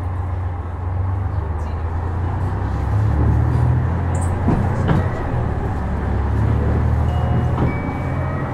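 Cabin sound of a KiHa 126 series diesel railcar under way: a steady low diesel engine drone that swells about three seconds in, with a few sharp knocks from the track. Near the end a faint rising whine comes in as the railcar picks up speed.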